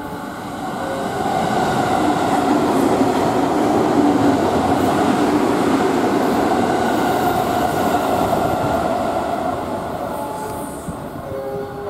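JR West 207 series electric commuter train running alongside the platform, the sound of its wheels and motors building over the first couple of seconds, staying loud through the middle and easing off near the end.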